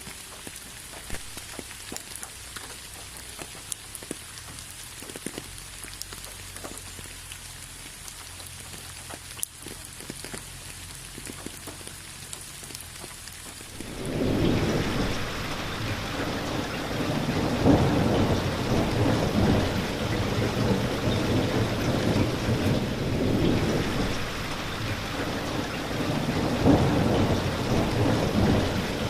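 Light rain with scattered individual drops ticking, then, about halfway through, an abrupt change to heavy, dense rain with rumbling thunder.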